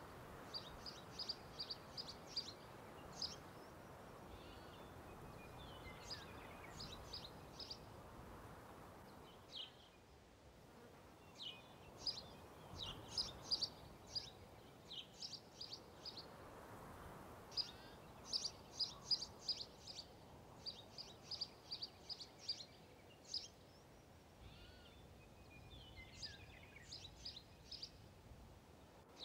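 A bird singing in runs of quick, evenly repeated high notes, phrase after phrase with short pauses between, over a soft steady hiss that slowly swells and fades.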